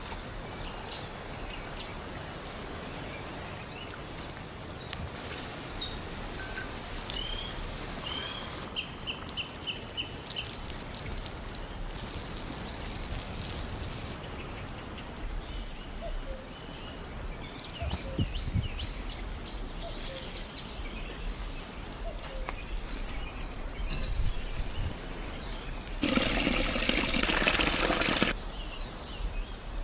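Small birds chirping on and off over a steady outdoor background, with a louder burst of hissing noise about two seconds long near the end.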